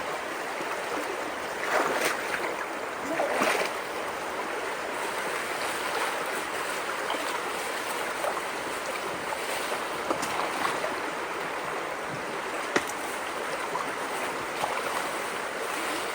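Creek water rushing steadily through and around a debris-choked culvert, with two louder splashing surges about two and three and a half seconds in and a few sharp knocks later on.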